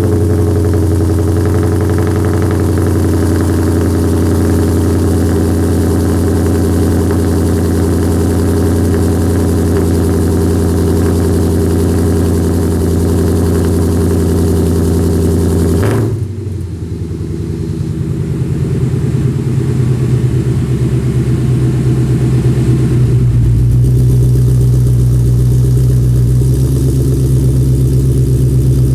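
2011 Mustang GT's 5.0 V8 idling steadily through Kooks headers, an off-road H-pipe and Borla axle-back mufflers. About sixteen seconds in, the sound changes abruptly to a lower, duller note.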